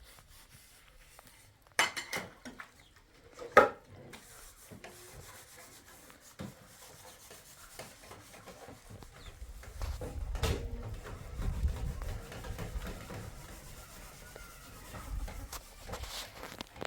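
Objects being handled: a few sharp knocks, the loudest about three and a half seconds in, then a longer stretch of rubbing and low scraping handling noise from about ten seconds in.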